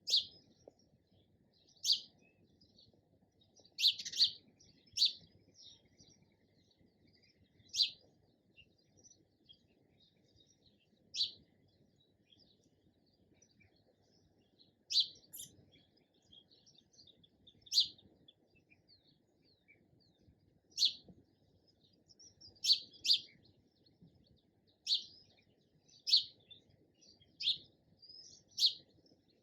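Sparrow chirping: short single chirps every one to three seconds, now and then two in quick succession, over a faint low background hum.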